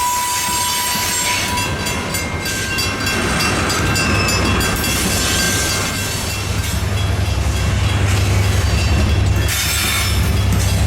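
Freight train rolling past, with thin squealing tones from the wheels on the rail and clicks over the rail joints. A low rumble grows stronger after about six seconds.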